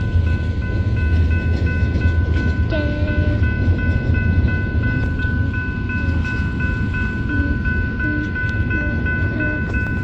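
Railroad crossing warning bell ringing in a steady, even rhythm over the low rumble of a train; a few short lower tones join in from about three seconds in.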